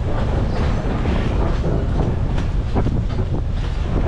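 Narrow-gauge tourist train car rumbling steadily along the track, heard from on board, with irregular clicks and knocks from the wheels on the rails.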